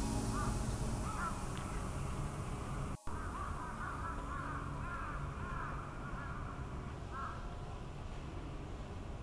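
Birds calling in short, repeated calls: a few at first, then a dense overlapping run in the middle and one more near the end, over a steady low background rumble. The sound drops out for a moment about three seconds in.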